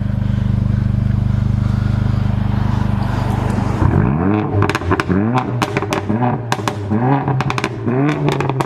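Mercedes-Benz CLA 45 AMG's turbocharged inline-four idling at the exhaust tips, then blipped about once a second from roughly four seconds in. Each rev rises and falls with sharp pops and crackles from the exhaust as it drops back.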